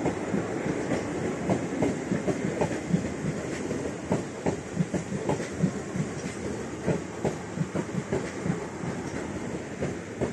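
South Western Railway electric multiple unit passing along the platform, its wheels clattering over rail joints in a quick, uneven run of clicks and knocks over a steady rumble. The last coach clears the platform near the end.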